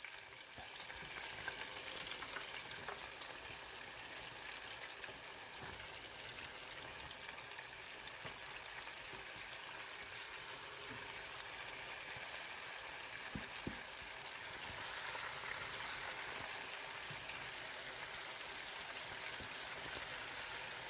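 Flour-coated chicken pieces frying in a deep fryer's hot oil at about 375 degrees, a steady crackling sizzle. A couple of faint knocks come about two-thirds of the way through.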